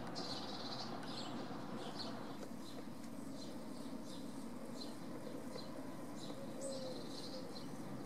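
Small birds chirping in short, high, repeated notes, a few each second, over steady background noise.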